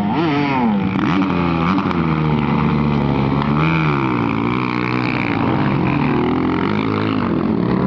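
Several motocross bikes' engines revving hard, their pitch repeatedly rising and falling as the riders open and close the throttle and shift, with more than one engine heard at once.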